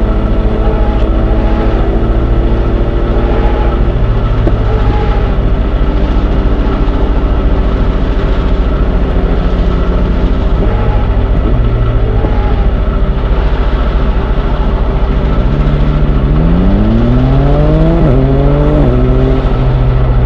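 Train engine running with a steady low drone. From about three quarters of the way in, its pitch rises and falls back about three times in quick succession as it revs, then settles.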